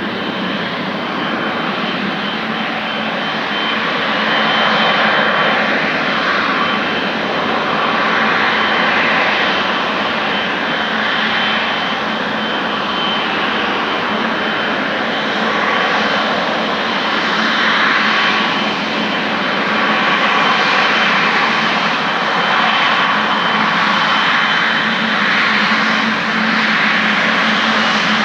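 Boeing 777-300ER's GE90-115B turbofan engines running at high power: a loud, steady rush of jet noise that swells and ebbs slowly, with a faint steady whine in the first half.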